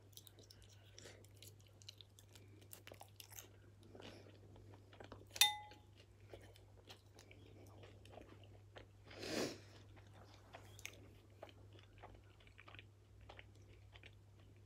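Close-up chewing and wet mouth sounds of someone eating, with many small clicks and crunches. About five seconds in, a metal spoon clinks once against a ceramic bowl and rings briefly, and near ten seconds there is a short puff of noise.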